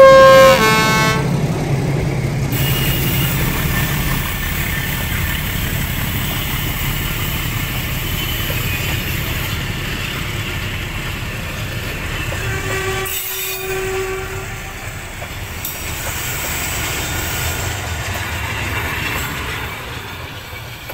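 A train horn blasts at the very start, then a train runs past with a steady rumble and rail clatter. A second, shorter single-note horn tone sounds about thirteen seconds in.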